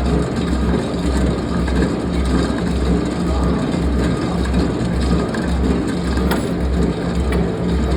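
Forging-shop machinery running: a dense, steady mechanical din over a low hum that pulses evenly about twice a second, with a few faint clicks near the end.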